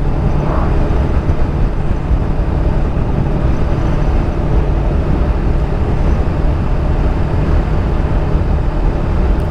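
Steady low rumble of a moving road vehicle, engine and road noise, with a faint constant hum.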